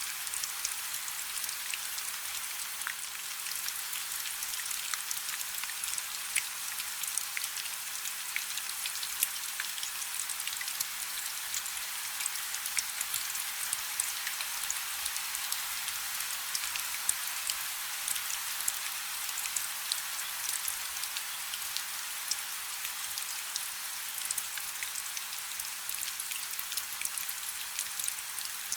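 Light rain falling steadily: an even high hiss full of small, separate drop ticks.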